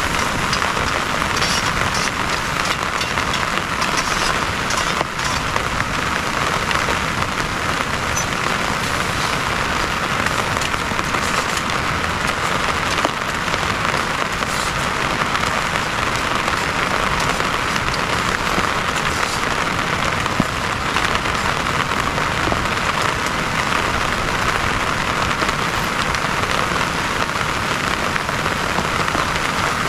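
Steady rain falling on a surface, an even wash of noise with scattered sharper drop hits.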